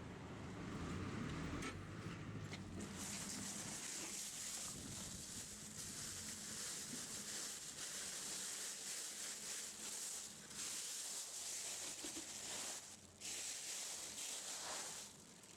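A steady high hiss, broken by short gaps about ten and thirteen seconds in.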